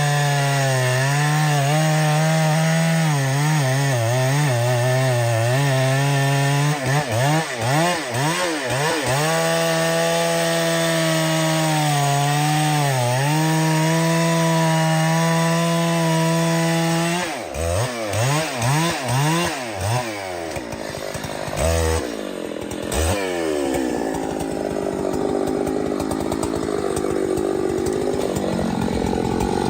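Two-stroke chainsaw running at high revs while cutting wood, its pitch sagging again and again as the chain bogs under load. About two-thirds of the way in, the steady engine note breaks up into a rougher, noisier sound.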